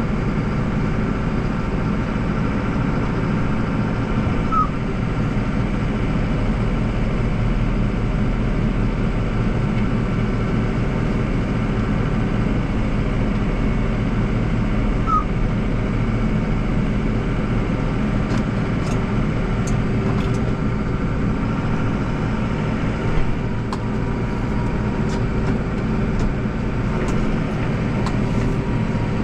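Deutz 5120G tractor engine running steadily under load, with a snowblower turning, its sound even throughout.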